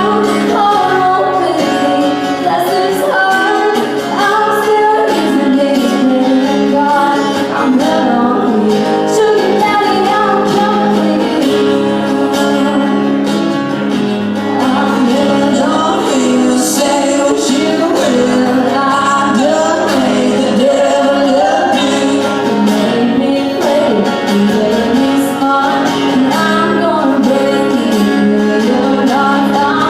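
A woman singing a country song live, accompanied by acoustic guitar.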